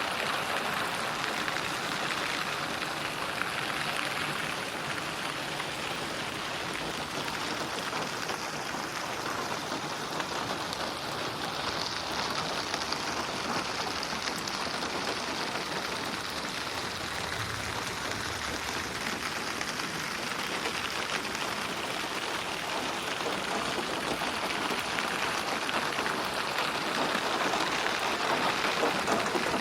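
Steady, continuous rainfall with a dense patter of drops, mixed as 8D audio so that its tone shifts slowly as it seems to move around the listener.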